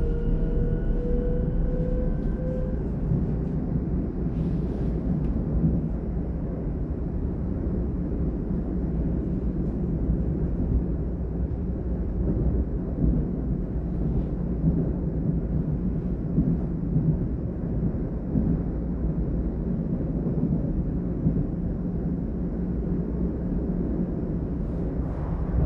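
Class 422 electric multiple unit (Alstom/Bombardier S-Bahn train) running at speed, a steady low rumble of wheels and running gear heard from on board. A faint electric whine from the traction drive rises slightly in pitch and fades out in the first few seconds.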